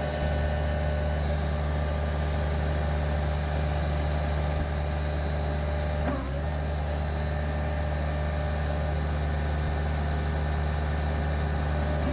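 Kubota 1.1-litre three-cylinder diesel engine of a Stag TL425 tracked skid steer loader running steadily. About halfway through, its speed briefly dips and recovers.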